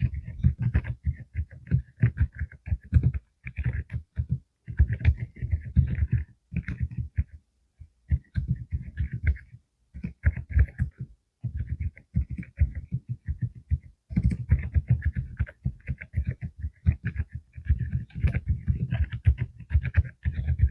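Typing on a full-size mechanical keyboard with Deep Sound low-noise switches (45 g): runs of rapid keystrokes broken by short pauses.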